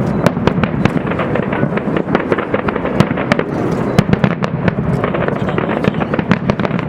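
Fireworks display: a rapid, continuous barrage of sharp bangs and crackling bursts, several a second, over a steady rumble.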